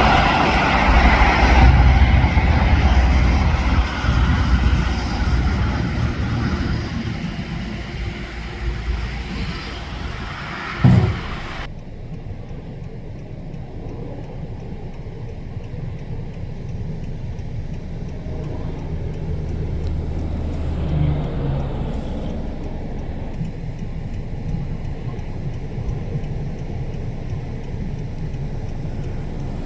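Highway traffic with heavy trucks passing. A loud passing vehicle with a deep engine and tyre rumble fades away over the first several seconds. A single sharp thump comes about eleven seconds in, then a steadier, duller traffic rumble follows.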